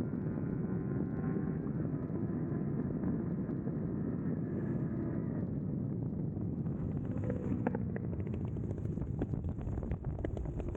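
Kawasaki Versys 300 motorcycle running steadily at speed, its engine under a heavy rush of wind on the microphone. A few sharp ticks come in over the second half.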